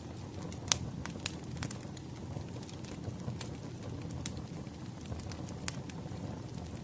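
Wood fire crackling: irregular sharp pops and snaps over a low steady rumble of burning logs, the loudest pop about a second in.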